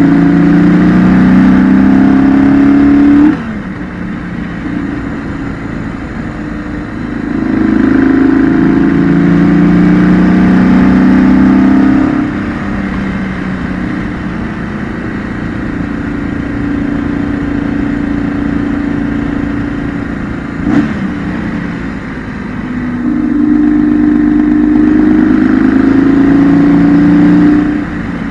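The air/oil-cooled boxer twin of a 2008 BMW R1200GS, heard onboard, pulls hard three times with its pitch climbing. Each pull cuts off suddenly as the throttle closes, and the engine runs quieter and steadier in between. There is a short knock about two-thirds of the way through.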